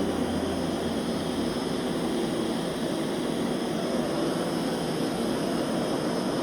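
Eufy S2 robot vacuum running, a steady whir of its suction motor and brushes with no change in level.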